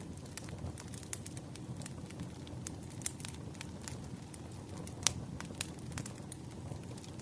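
Campfire burning: a steady low rumble of flames with irregular sharp crackles and pops of burning wood, the loudest pop about five seconds in.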